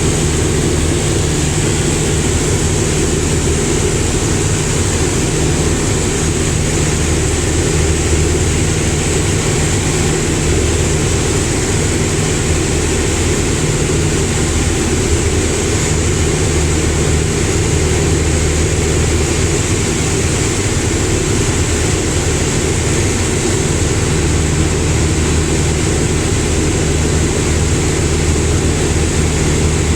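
Small propeller airplane's engine and propeller running steadily, a constant drone with a low hum under a broad hiss, unchanging in pitch and level.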